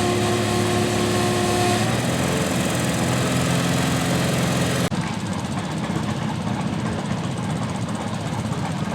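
Small garden tractor engine running hard, with a steady tone that shifts about two seconds in. The whole sound changes abruptly about five seconds in, to a rougher engine noise with less hiss.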